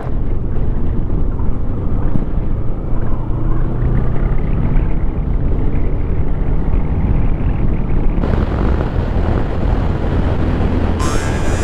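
Motorcycle engine running steadily while riding, with road and wind noise over it.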